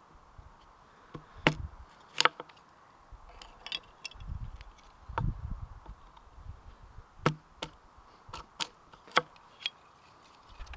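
Irregular sharp knocks and clicks, a dozen or so, the loudest two about one and a half and two seconds in, with a few dull low thumps in between.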